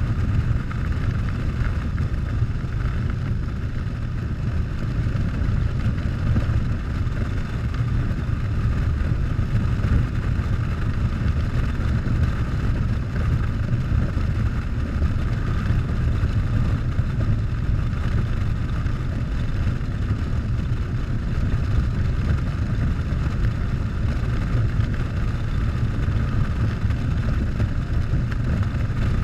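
Harley-Davidson Softail's V-twin engine running steadily at cruising speed under a strong low rush of wind on the microphone.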